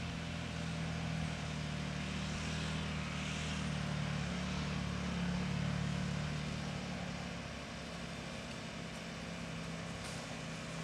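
Motorcycle engine running at a steady pitch, growing a little louder toward the middle and easing off in the second half.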